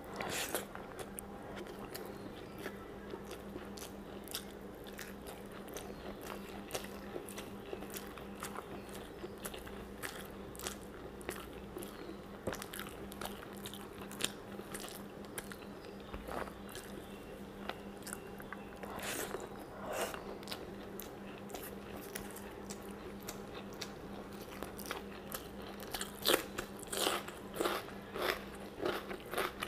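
A person chewing a mouthful of rice and curry, with many short sharp mouth clicks that come faster and louder near the end, over a steady low hum.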